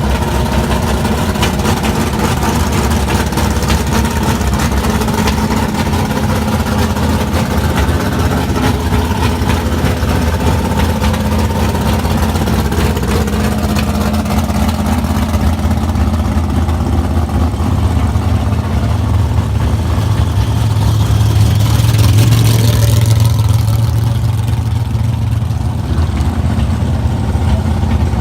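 Car engine rumbling steadily at low revs, swelling louder for a few seconds about three quarters of the way through, then easing back.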